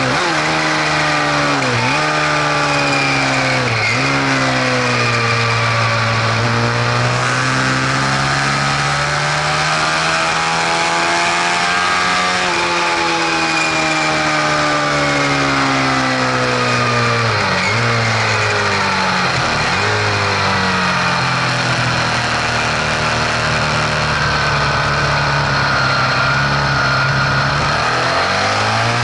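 Engine running steadily, its pitch drifting slowly up and down with several sharp brief dips. It is offered as an unfamiliar mechanical noise, an abnormal sound the owner is questioning.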